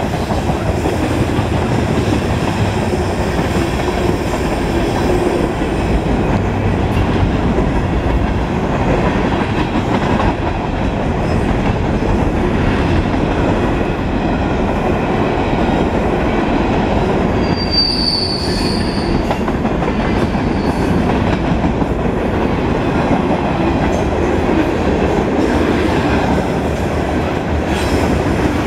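Freight cars of a mixed freight train rolling past: a steady rumble of steel wheels on rail, with a short high wheel squeal about two-thirds of the way through.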